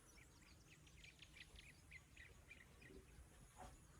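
Faint bird chirps, short and high, repeated several times a second over a low background rumble.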